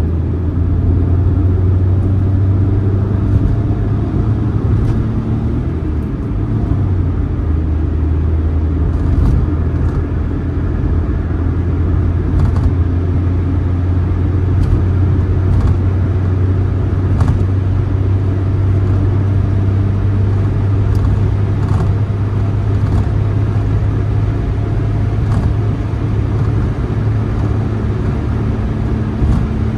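Suzuki Mehran's 800 cc three-cylinder engine droning steadily at cruise, heard from inside the cabin along with tyre and road noise. Occasional faint ticks are heard now and then.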